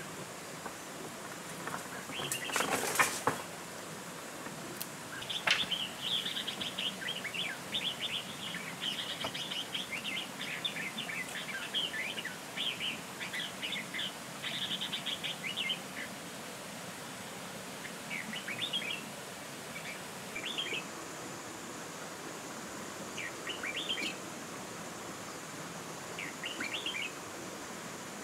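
Birds chirping in bursts of quick repeated notes, busiest in the first half, with a brief clatter about three seconds in.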